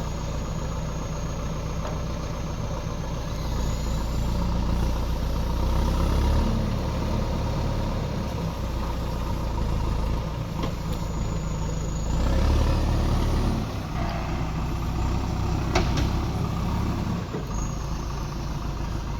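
Diesel engine of a JCB backhoe loader running and working, its sound swelling twice as it takes load, with one sharp knock near the end.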